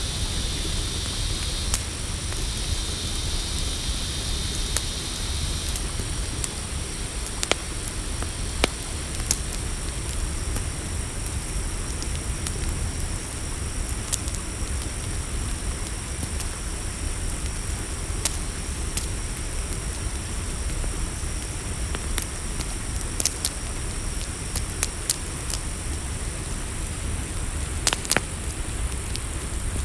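Campfire crackling, with sharp pops every few seconds over a steady low rumble, while crickets or other night insects chirr as steady high-pitched tones; one of the insect tones stops about six seconds in.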